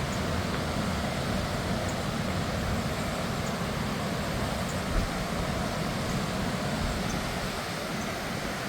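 Steady rushing of the Housatonic River's water at its falls, with a single thump about five seconds in.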